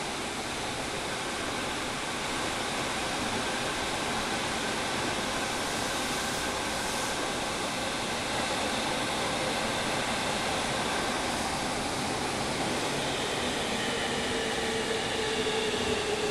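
Interior running noise of a JR Kyushu 305 series EMU, heard in a motor car: a steady rumble of the moving train with the air-conditioning fans loud over it. Near the end a whine from the Toshiba inverter-driven permanent-magnet synchronous traction motors grows louder and falls slightly in pitch.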